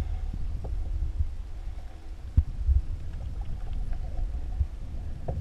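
Low wind rumble on the microphone out on open water, with a few soft knocks, the strongest about two seconds in.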